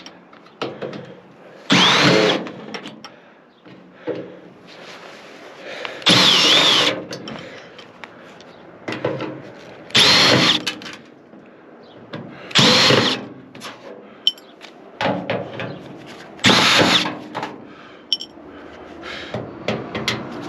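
Cordless drill-driver backing screws out of a microwave oven's casing in five short bursts of under a second each, its motor whine wavering, with quieter clatter of handling in between.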